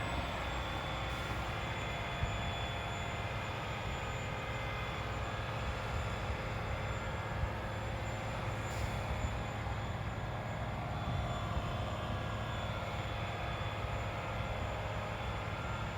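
Steady low drone of a sour gas drilling rig running: a constant hum underneath, with faint steady high-pitched whine tones above it.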